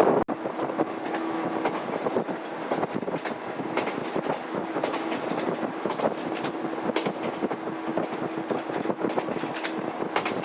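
Electric train running on jointed track: wheels clicking over rail joints, often in pairs, over a steady running hum with one held tone.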